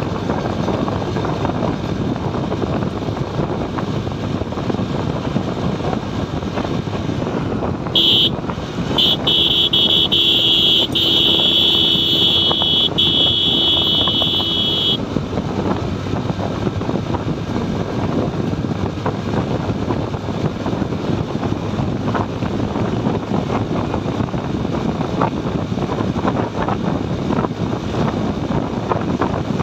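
Motorcycle riding along a highway: steady wind and road rush with engine noise on the phone's microphone. About eight seconds in, a vehicle horn sounds two short toots and then a long blast lasting about six seconds.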